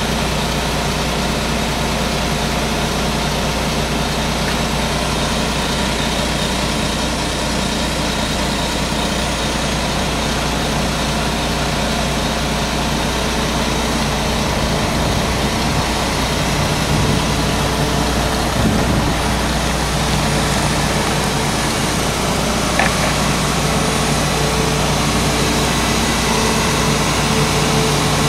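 Heavy diesel construction equipment running steadily at a water-main utility dig, a continuous engine drone whose note shifts a little past halfway through, with one short sharp tick late on.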